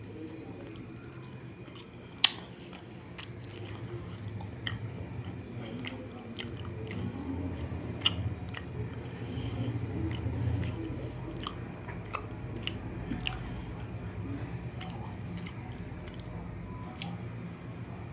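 Close-miked chewing of soft, syrup-soaked rasgulla: wet mouth sounds with many small lip and tongue clicks, and one sharp click about two seconds in.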